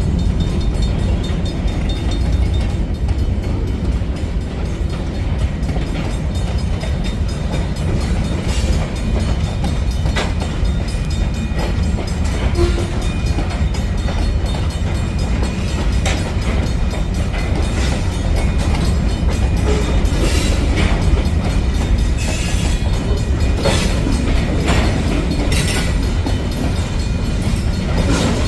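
Great Lakes Central freight train rolling past with a steady low rumble, its wheels clicking over rail joints now and then.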